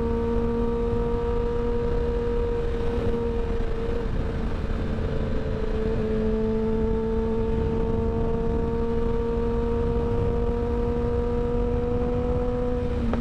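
Kawasaki Ninja ZX-10R inline-four with an M4 slip-on exhaust running at steady cruising revs under dense wind rush. The engine note breaks and drops once about five seconds in, like a quick-shifter upshift, then climbs slowly.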